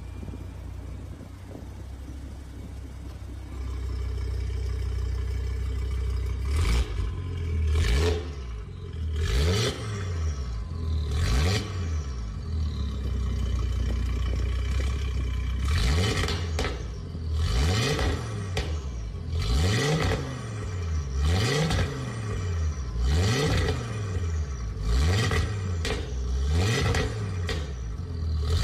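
Audi RS3's turbocharged 2.5-litre five-cylinder engine idling steadily, then free-revved in a string of quick blips, each a sharp rise and fall in pitch, about one every one to two seconds.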